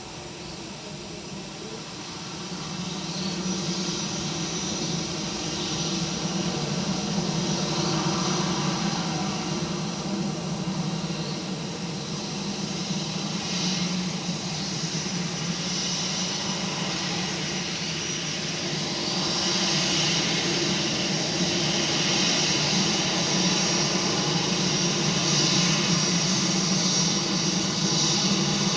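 Aircraft engine noise as a plane flies over: a steady rushing drone that swells about two seconds in, eases, and swells again louder over the second half.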